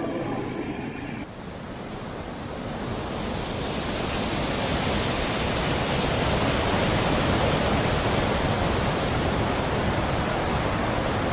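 Steady rushing noise of a storm, the wind-and-rain roar of a typhoon, starting about a second in and building over the next few seconds before holding steady.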